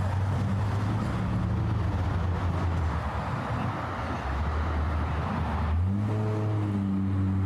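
Street traffic: a motor vehicle's engine running with a steady low hum over general road noise, its pitch stepping up about six seconds in.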